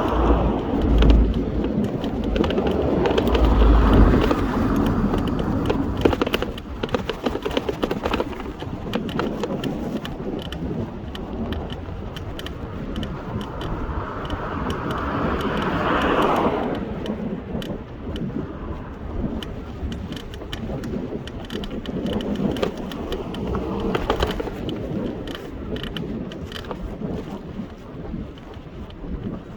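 Wind buffeting the microphone outdoors, with heavy low rumbles in the first few seconds and slow swells in the rushing noise.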